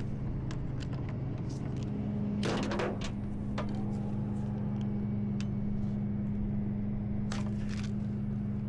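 A tow truck runs with a steady low hum, and scattered sharp metallic clicks and knocks sound over it, a few of them grouped about two and a half seconds in and again near the end. This is rigging being worked on the rollback bed as the winch is used to pull a wheel dolly out from under a motorcycle.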